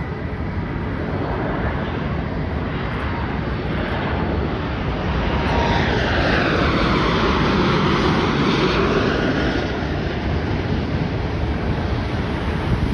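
Boeing 737 MAX 8 jet arriving on approach and passing by, its CFM LEAP-1B turbofans making a steady jet noise. The noise builds to a peak with a sweeping, phasing hiss about seven seconds in, then eases off.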